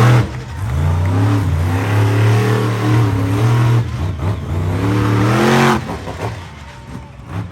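Monster truck engine revving hard, its pitch swinging up and down with repeated throttle changes, then easing off and falling quieter about six seconds in.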